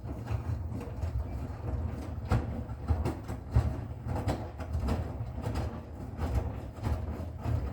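Bosch Serie 6 front-loading washing machine running, a steady low rumble with irregular knocks and clatter as the drum turns.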